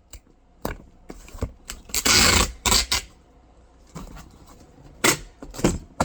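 Packing tape pulled off its roll in one loud stretch of about half a second, about two seconds in, to seal a cardboard box, with scattered taps and knocks of hands and tape on the cardboard.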